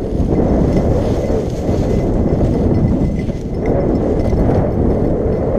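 Footsteps and rustling of someone walking through a field of dry sorghum stalks, a dense, crackly brushing noise.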